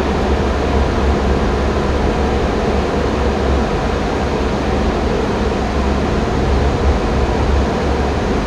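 Steady airflow and air-conditioning noise inside an Airbus A320 cockpit in flight, heaviest in the low rumble.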